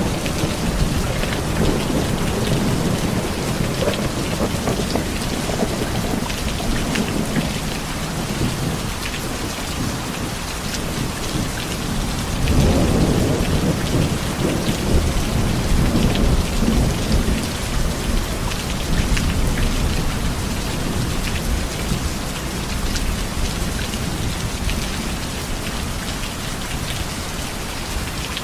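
Heavy rain falling steadily, with low thunder rumbling at the start and again in a longer swell about twelve seconds in.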